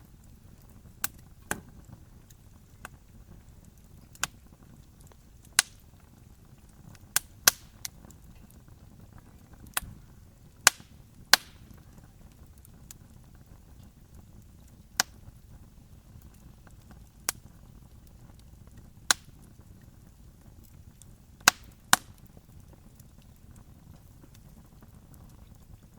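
Wood fire crackling: sharp, irregular pops and snaps from burning wood, some in quick pairs, over a faint steady low hiss.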